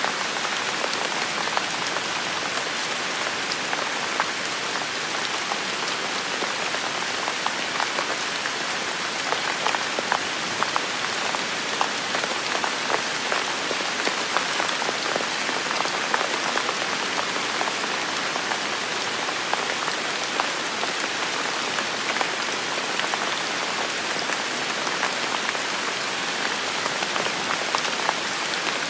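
Heavy rain falling steadily, a dense hiss with many individual drops pattering close by.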